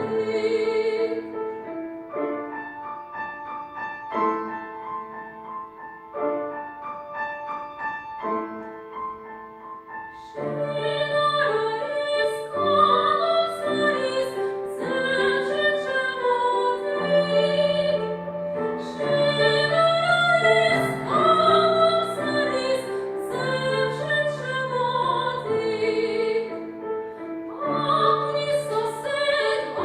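Female classical (operatic) voice singing a romance with piano accompaniment. The music is quieter for about the first ten seconds, then grows louder, the voice sustaining notes with a wide vibrato.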